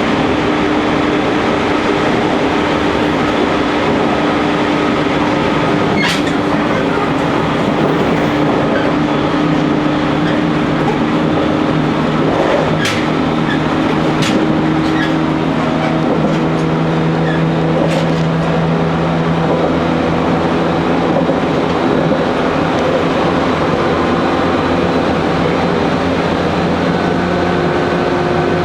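JR Kyushu 813 series electric train running at speed, heard from the driver's cab: a steady rolling rumble of wheels on rail with a constant electrical hum, and a few sharp clicks along the way.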